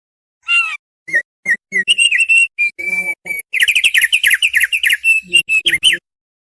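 Thick-billed heleia (opior paruh tebal) singing: a phrase of short whistled notes that begins about half a second in, runs into a fast string of notes in the second half, and stops abruptly about six seconds in.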